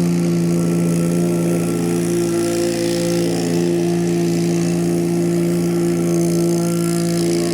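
Engine of a piece of work machinery running steadily at constant speed, a low even hum with no change in pitch.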